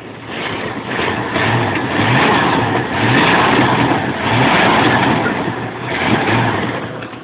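1979 Lincoln Mark V's 400 cubic-inch (6.6 litre) V8, running through a Flowmaster 40 series muffler with no tailpipe fitted, revved up and let back down several times. The sound is loud and rough.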